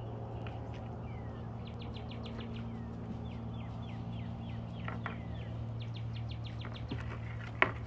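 A small bird chirping in quick runs of short high notes, some of them falling in pitch, over a steady low hum. A single sharp click comes near the end.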